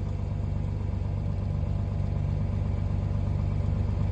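Diesel engine of a timber processor running steadily, heard from inside the machine's cab.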